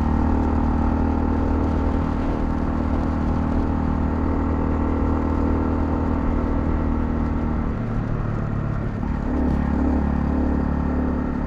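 Honda CL250's single-cylinder engine running steadily under way. About eight seconds in, the engine note dips and shifts for about a second, then settles back to a steady pull.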